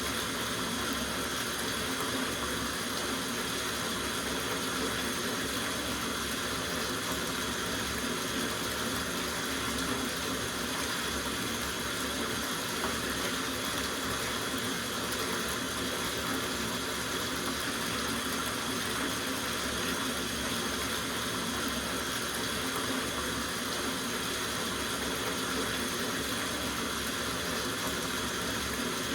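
Tap water running steadily into a soaking bathtub, an even rushing splash that does not change.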